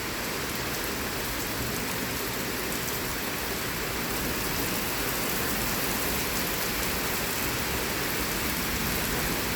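Heavy rain pouring down steadily during a severe thunderstorm, an even hiss of rain on surfaces with no distinct thunder.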